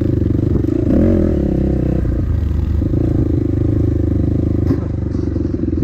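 Dirt bike engine running steadily under way, with a brief rise in revs about a second in and a single sharp knock near the end.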